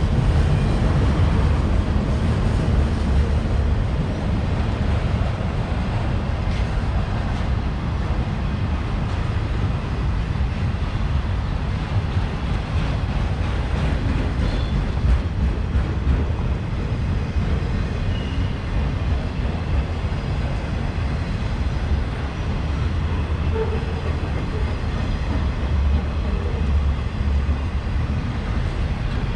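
CSX autorack freight train rolling past, a steady rumble of wheels on the rails.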